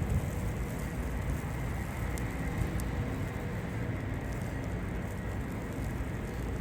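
Steady downtown street ambience: a low, even rumble of city traffic with no distinct events.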